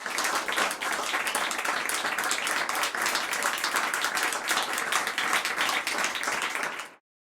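Crowd applauding: dense, steady clapping from many hands that starts abruptly and cuts off sharply near the end.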